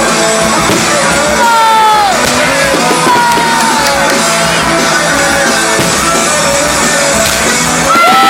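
Loud live rock music, with a singer's long held notes sliding down in pitch over the band.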